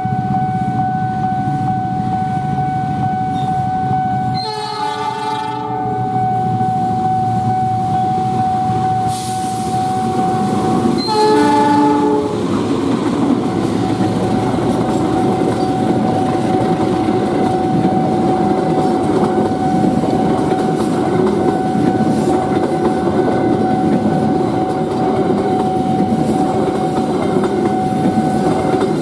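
A level-crossing warning alarm rings steadily while a train horn sounds twice: a blast of about a second and a half about four seconds in, and a shorter one about eleven seconds in. From about twelve seconds in, a KRL commuter electric train passes close by, its wheels rumbling and clattering over the rails.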